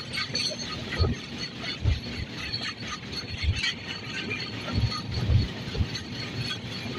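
Running noise of a moving passenger train: wheels on the track and rushing air, with irregular low thumps.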